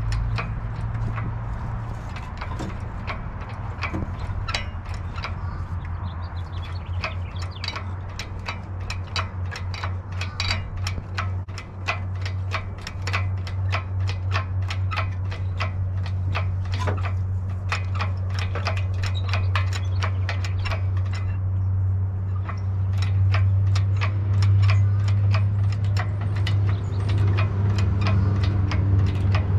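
Rapid, evenly spaced mechanical clicking, about two to three clicks a second, over a steady low hum, as the Crosley's engine is lifted out, typical of a hoist being worked.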